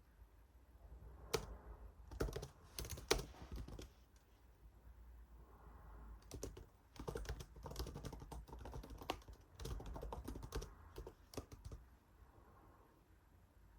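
Typing on a computer keyboard in two bursts of key clicks, the first about a second in and the second from about six seconds in, with a short pause between.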